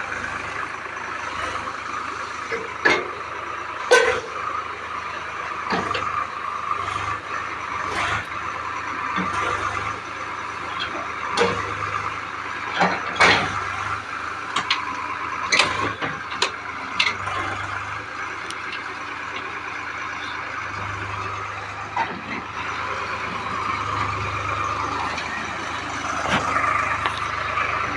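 Tractor engine running steadily, with sharp knocks and clanks every second or few.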